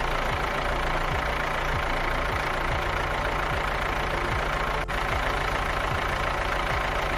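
Tractor engine running steadily at an even idle-like pace, with a regular repeating beat.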